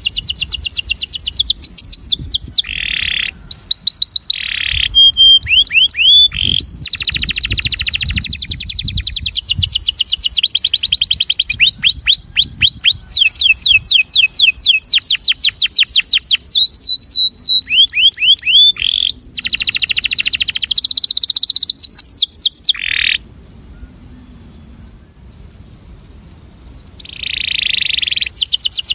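Male domestic canary singing its courtship song: fast trills of quickly repeated sweeping notes, one trill type giving way to the next with short breaks. It falls almost silent for a few seconds near the end, then starts a new trill.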